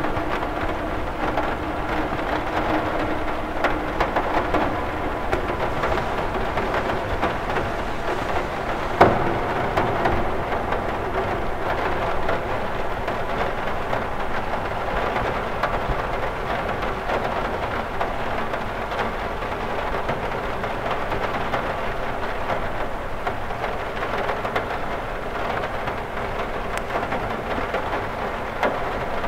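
Steady rain falling on a window, a dense even hiss of many small drop ticks, with one sharper, louder drop hit about nine seconds in.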